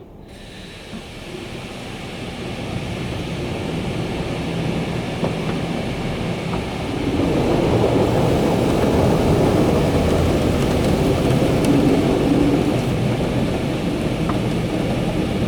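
Belanger Condor automatic car wash running, heard from inside the car: a steady rushing noise that builds and grows markedly louder about halfway in.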